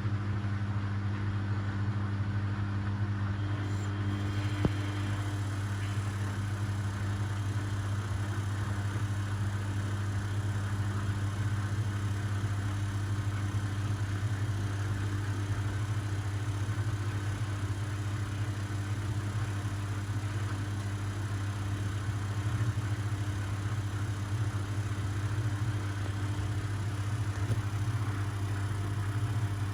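Household washing machines and condenser tumble dryers running together: a steady low electric motor hum with a faint even whir and no pauses, one tone in the hum dropping out about three and a half seconds in.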